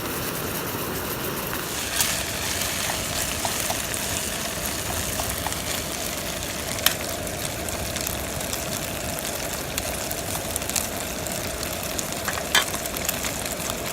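Meat sizzling as it grills, a steady sizzle with a few sharp pops of fat.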